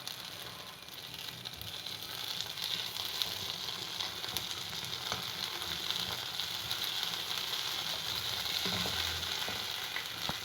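Vindaloo spice paste sizzling as it fries in oil in a pan, with a few light clicks of a spoon stirring it. The sizzle grows a little louder after about two seconds.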